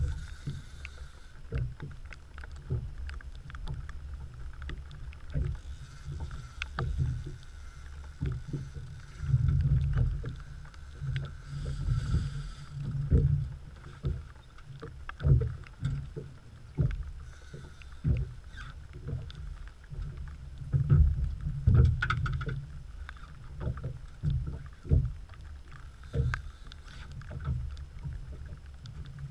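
Rain and wind on a small open boat: a low, uneven rumble that swells every second or two, with scattered sharp ticks of raindrops striking the camera.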